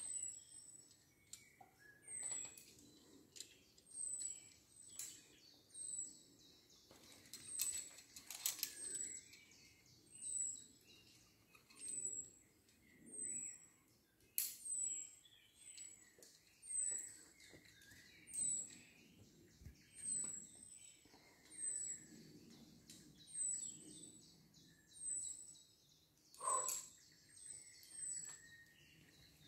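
A bird repeating a short, high, falling call about once a second, with a few sharp clicks, the loudest near the end.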